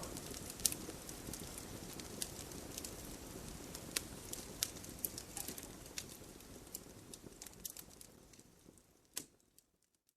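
Wood campfire crackling, with frequent sharp pops and snaps over a low rush of burning. The sound fades out about eight seconds in, dropping to silence just before the end.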